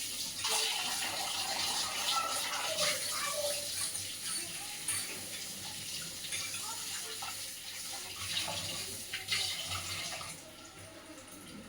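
Batter-coated fritters deep-frying in hot oil: a steady sizzle with many small crackles and pops, easing a little near the end.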